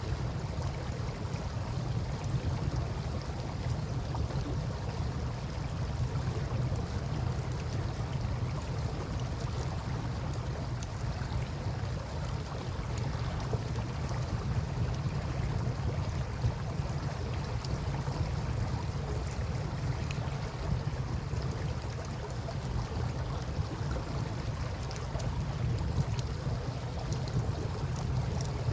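Wood campfire crackling with scattered small pops, over a steady low rumble and rush of river water.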